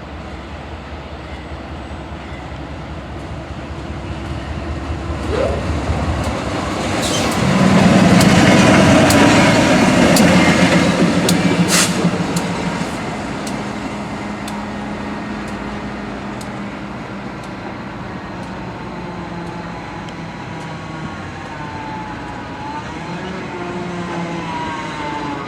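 Freight train passing with a diesel locomotive's engine drone, loudest about eight to eleven seconds in. A run of sharp clicks comes as the wheels cross rail joints, then the sound eases into a steady rumble as the train rolls on.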